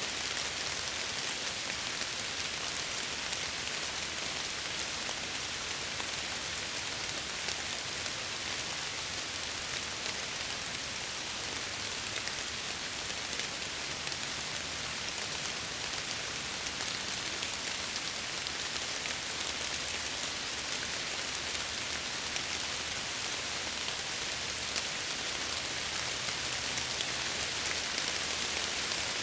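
Steady rain falling against window glass, an even hiss with no breaks.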